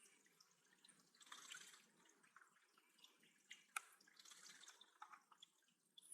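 Faint dripping and trickling water with scattered small clicks, one sharper click near the middle.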